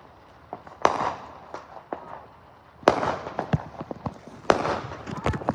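Fireworks going off: three loud bangs about two seconds apart, each trailed by crackling, with many smaller pops between them and more toward the end.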